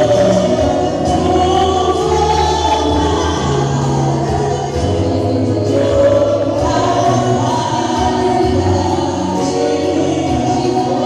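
Congregational gospel singing: a choir of voices singing together over a steady bass line.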